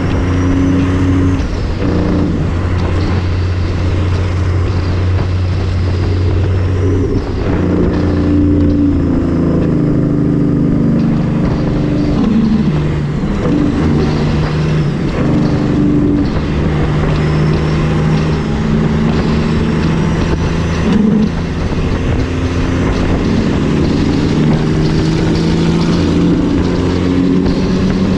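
A heavy diesel truck engine running on the road, with a steady low drone and pitch that steps up and down a few times as it pulls.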